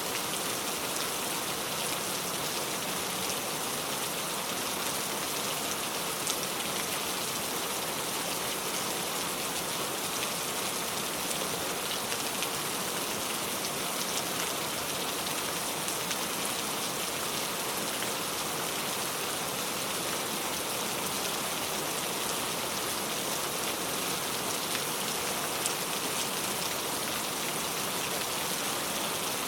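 Steady rain falling, an even dense hiss of drops on surfaces, with a couple of sharper drop hits standing out about a third of the way in and near the end.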